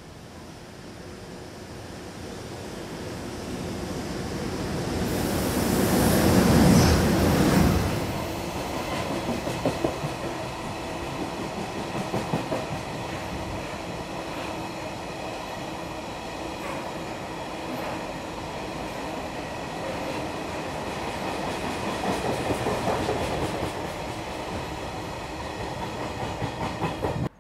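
An EH200 electric freight locomotive passes at speed hauling a train of tank wagons. The sound builds as it approaches and is loudest as the locomotive goes by about seven seconds in, then settles into the steady rumble of the tank wagons rolling past, their wheels clacking over rail joints again and again.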